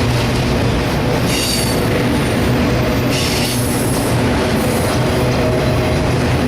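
Freight train of autorack cars rolling past with a steady loud rumble of wheels on rail, and brief high-pitched wheel squeals about a second and a half in and again around three seconds in.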